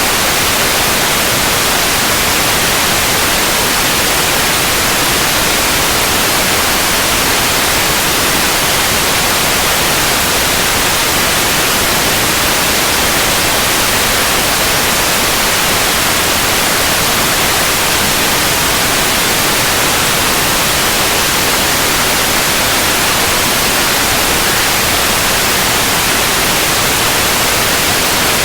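Steady, unchanging white noise: an even hiss across the whole range, brighter in the highs.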